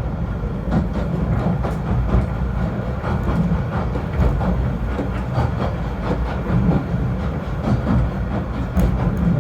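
Snowdon Mountain Railway rack train running: a steady low rumble with scattered clicks and knocks from the wheels and running gear.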